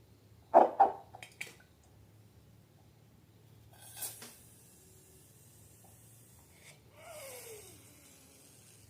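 Handling noises of slime and balloons: two loud sharp sounds about half a second in and a few lighter clicks, a short hiss at about four seconds, and a falling squeak with a hiss near the end.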